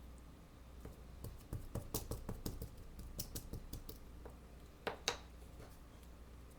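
A quick, irregular run of light clicks and taps from handling and pressing a cling rubber stamp on a clear acrylic block, with two louder clicks about five seconds in.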